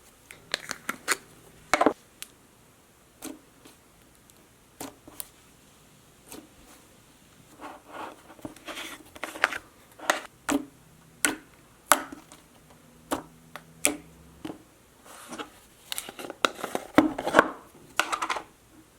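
Plastic slime containers being handled and sorted: irregular sharp clicks, knocks and scratches as tubs and lids are picked up and set down, busiest in the second half.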